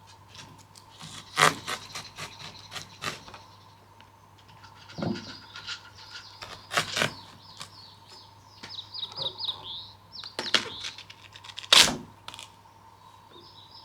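Small birds chirping in short repeated high notes, with scattered sharp clicks and knocks in between, the loudest knock near the end.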